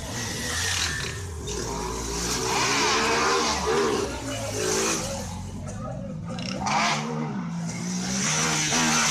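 Vehicle engines revving repeatedly, the pitch climbing and dropping several times, with noise from a crowd around them.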